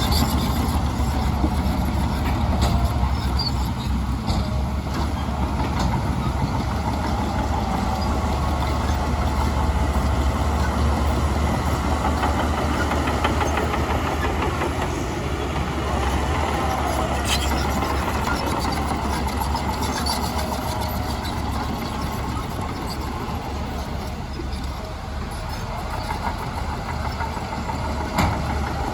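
Heavy diesel earthmoving machinery running: a deep, steady engine rumble with a few sharp knocks, one about two-thirds through and one near the end.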